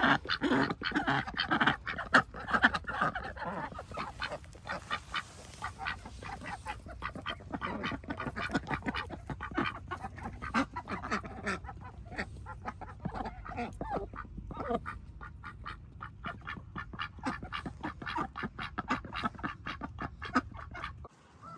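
Ducks quacking, most densely in the first few seconds, with quick rapid clicking of bills nibbling at grass. It all cuts off suddenly just before the end.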